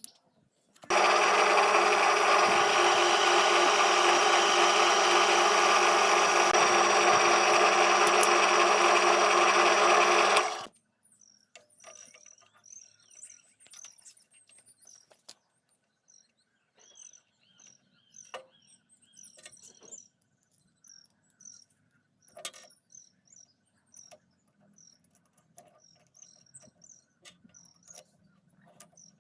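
A small motor runs steadily and loudly for about ten seconds, then cuts off suddenly. Faint bird chirps and scattered small clicks follow.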